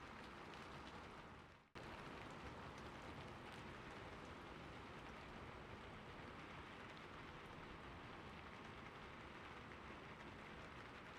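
Soft, steady rain falling. About two seconds in it fades away and then cuts abruptly back in.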